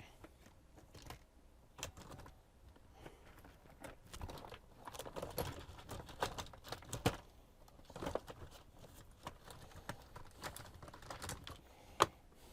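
Irregular light clicks and taps of small parts and tools being handled on a repair bench, with one sharper click near the end.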